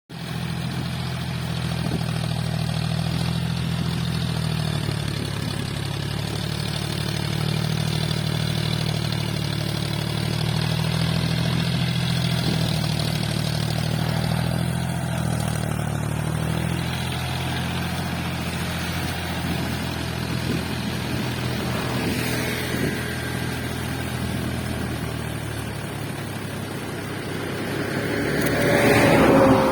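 Tractor engine running steadily with a low, even drone. Near the end a louder sound with higher pitch lines swells up over it.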